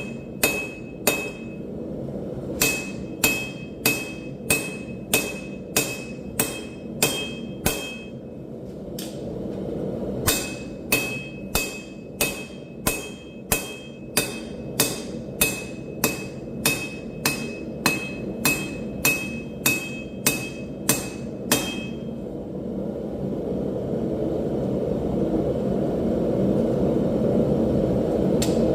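Hand hammer striking hot steel on an anvil, about two blows a second in three runs with short pauses, each blow ringing. The hammering stops about 22 seconds in, leaving a steady low rushing noise that grows louder.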